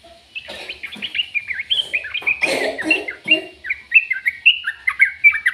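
A bird chirping and twittering in a rapid, unbroken run of short notes.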